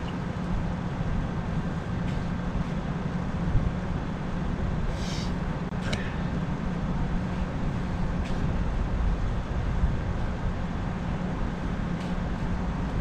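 Ford Explorer's engine idling steadily while the truck sits stuck in a hard snowdrift, with a few faint scrapes of a shovel digging packed snow beside the wheels.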